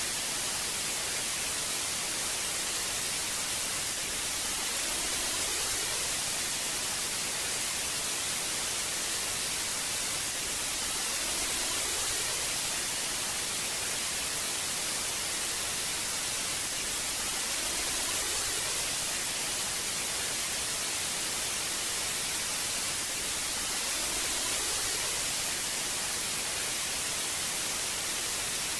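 Old analog TV static: a steady hiss of white noise, brightest in the highs, swelling slightly about every six seconds.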